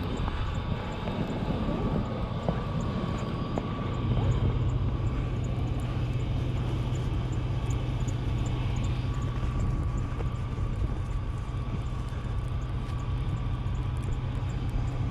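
A motor running steadily, a low drone with a thin high whine over it, growing a little louder about four seconds in, with a faint, regular ticking.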